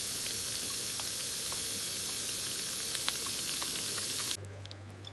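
Pan of sauce sizzling steadily with a few faint pops, cutting off suddenly a little past four seconds in; a low hum follows.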